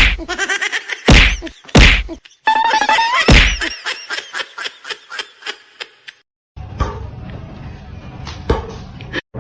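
Three loud whacks in the first few seconds, mixed with music, followed by a quieter, noisy stretch with a couple of clicks.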